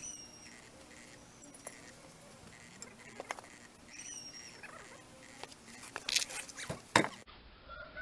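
A small bird chirps twice, about four seconds apart, over scattered sharp clicks and knocks that bunch together and are loudest near the end.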